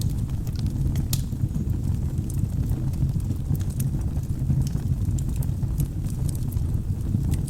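Wood fire burning in a fireplace: a steady low rumble of flames under frequent small crackles and pops of burning logs, with one sharper pop about a second in.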